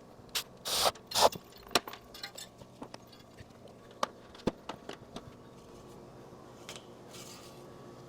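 Hand tools and metal engine parts clinking, knocking and scraping during reassembly work: a quick run of sharp clicks with a few short scrapes in the first second and a half, then sparser taps.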